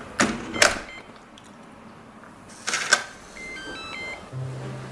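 Digital door lock being worked as a front door is opened: a few loud clacks of the lock and handle, then a short electronic chime of beeps at several pitches about three and a half seconds in. A steady low hum starts near the end.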